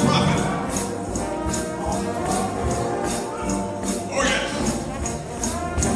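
Shout band music: a brass ensemble of trombones playing full chords over a tambourine struck in a steady beat, about three hits a second.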